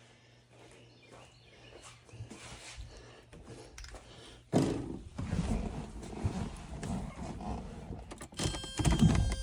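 Cold start of a 1983 Porsche 944: a faint steady hum with a few clicks, then about halfway in the starter motor begins cranking the 2.5-litre four-cylinder engine, loud and uneven.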